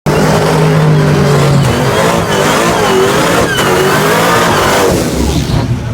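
Car engine revving loudly, its pitch rising and falling several times.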